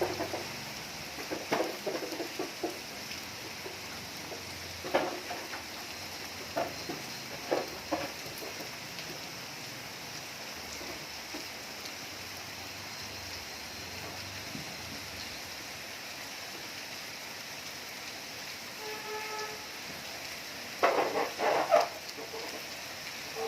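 Heavy rain falling steadily, a constant hiss. Scattered short louder sounds stand out over it, several in the first eight seconds and a loud cluster near the end, with a brief pitched call about nineteen seconds in.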